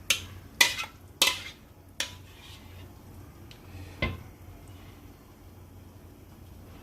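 A serving spoon clinking against dishware as sauce is spread over the food: four quick clinks in the first two seconds and one more about four seconds in.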